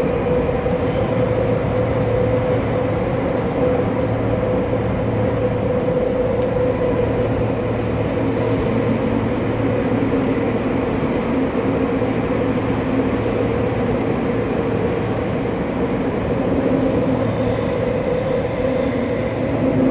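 Saitama Railway 2000 series electric train running at a steady speed between stations, heard from inside the car: an even rumble of wheels on rail with a constant low hum.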